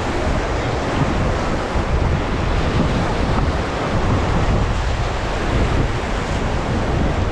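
River water rushing around a raft, with wind buffeting the microphone: a steady, unbroken noise.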